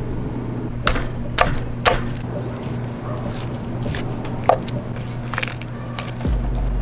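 A handful of sharp clicks and knocks over a steady low hum, with a deeper hum coming in near the end.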